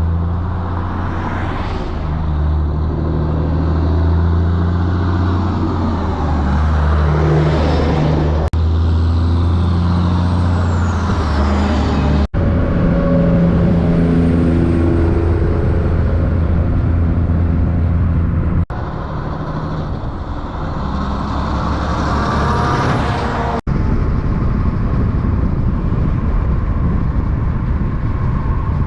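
Heavy diesel truck engines running loud with a deep, steady drone, heard in several short stretches that change abruptly from one to the next.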